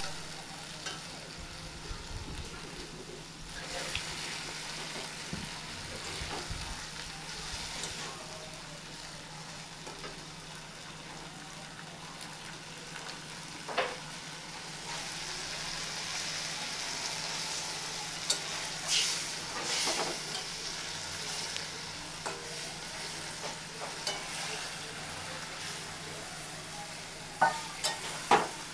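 Fish curry frying and sizzling in hot oil in a pan, with occasional sharp knocks as it is stirred, several close together near the end.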